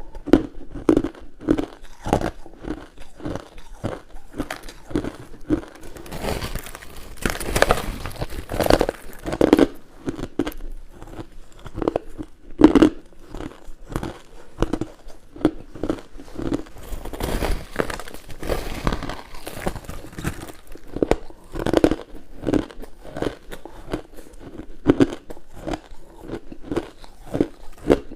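Close-miked biting and chewing of frozen humidifier frost and crushed ice: a steady run of sharp crunches, a few each second, with thicker, louder bursts of crunching now and then.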